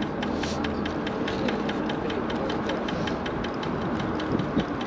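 Electric scooter riding along, with steady road noise and a rapid, regular clicking knock of about seven clicks a second.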